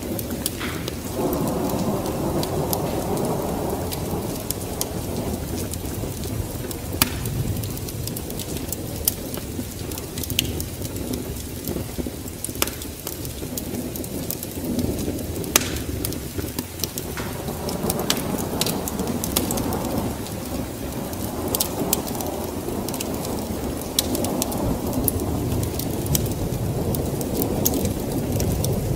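Steady rain with low rolling thunder that swells and fades several times, over scattered sharp pops and ticks.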